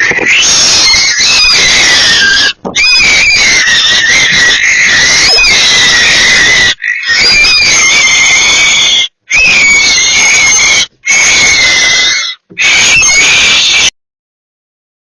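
Barn owl screeching: a run of long, harsh, hissing screams, each lasting one to several seconds with short breaks between them, cutting off about a second before the end.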